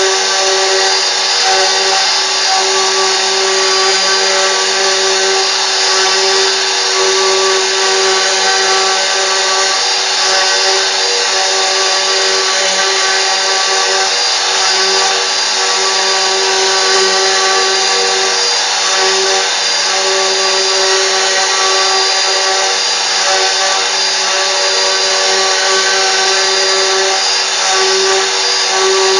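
CNC machine spindle motor running steadily, a continuous whine over a dense hiss.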